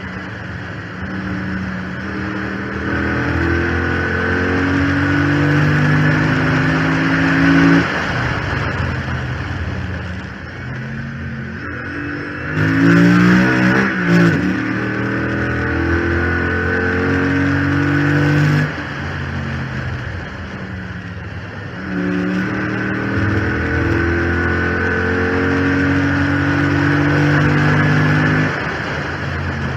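The 6.4-litre HEMI V8 of a 2014 Chrysler 300 SRT8 under full throttle on track, heard from the hood scoop: three long pulls rising in pitch, each cut off suddenly on lifting, with a short loud burst of changing revs about thirteen seconds in. A high whine rides over the engine, which the owner puts down to the failed power steering pump.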